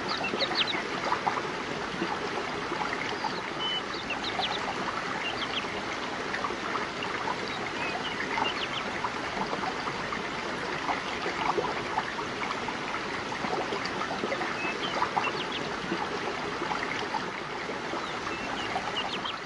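River water flowing steadily over rocks, a constant rushing with many small splashes and gurgles.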